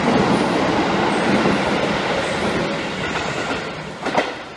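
Electric commuter train running past a station platform: steady wheel-on-rail noise that slowly fades away, with a short sharp click about four seconds in.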